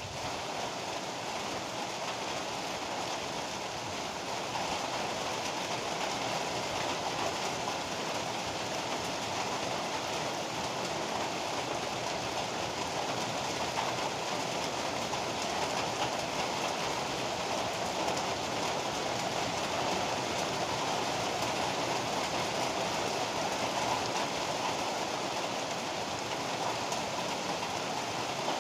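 Heavy rain pouring steadily as an even hiss, a little louder from about five seconds in.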